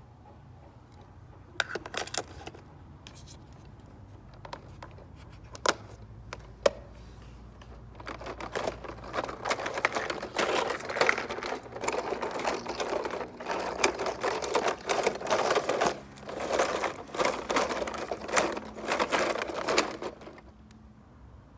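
Plastic and die-cast toy cars being handled: a few separate clicks, then a long stretch of quick, irregular rattling and clattering as the toys are rolled and moved around. It stops briefly a little past halfway, then starts again.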